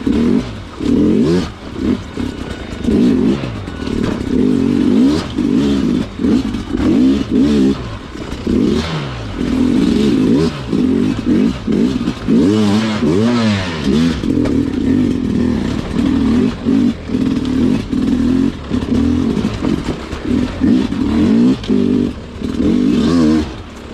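Sherco two-stroke dirt bike engine revving up and down in short bursts of throttle, with brief drops between them, as the bike works slowly over technical terrain.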